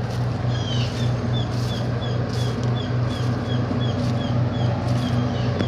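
Steady low drone of heavy machinery at the truck depot, pulsing evenly. A short high chirp repeats about three times a second over it from about half a second in.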